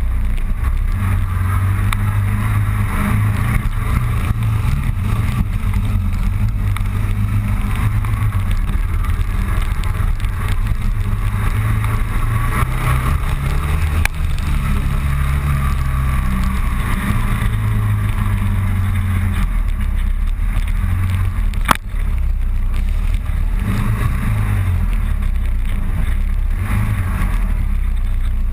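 Motorcycle engine running under way, its low drone shifting up and down in pitch with speed, over a steady rush of noise. A single sharp click about three-quarters of the way through.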